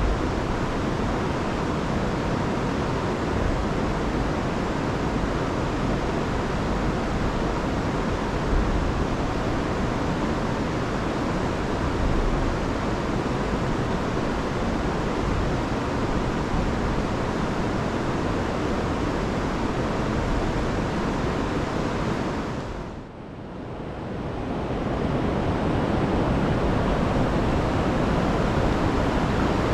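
Rain-swollen river rushing over waterfalls: a steady, even wash of water noise. About three quarters of the way through it briefly drops away and swells back.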